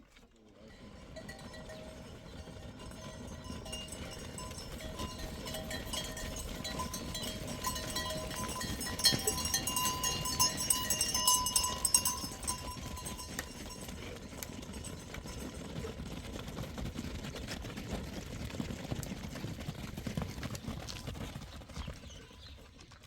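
Herd animals moving past: many hooves clattering, with bells ringing among them. It grows louder to a peak about ten seconds in, then fades.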